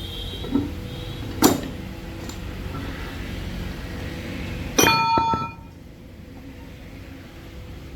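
Metal tools and parts of a truck differential being handled: a sharp metal knock, then a few seconds later a louder clang that rings for under a second, over a low steady rumble that falls away just after the clang.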